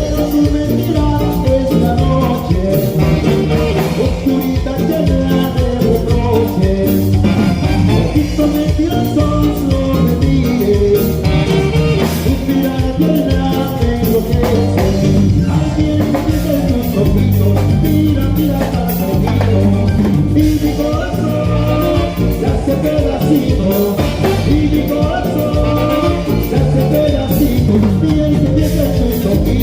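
Latin tropical band music led by its horn section of trumpets and saxophones, over a steady drum beat.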